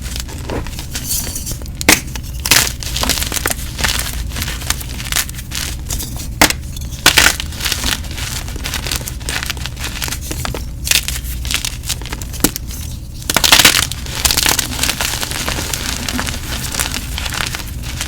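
Soft gym chalk being crushed and crumbled: a steady run of irregular dry crunches and crackles, with the loudest crunch about thirteen and a half seconds in.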